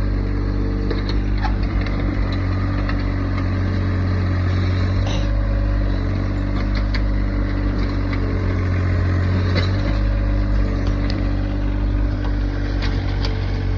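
Tractor engine running steadily, with occasional small knocks and clicks over it.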